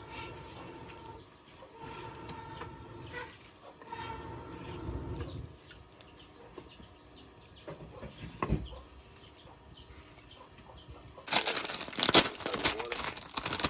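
Quiet rural background with faint bird and chicken calls, then loud crinkling of a plastic instant-noodle packet being handled, starting a little after eleven seconds in.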